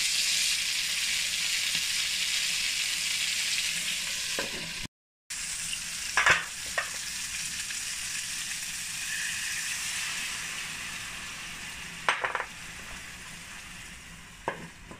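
Coated chicken pieces frying in oil in a non-stick pan, a steady sizzle. A few short, sharp knocks stand out over it, about six seconds in, again about twelve seconds in and near the end.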